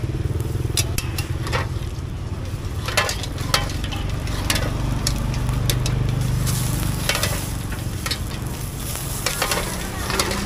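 A folded pancake sizzling in hot oil in a wok, with sharp clicks of metal utensils against the pan over a steady low hum. The sizzle grows louder about six seconds in.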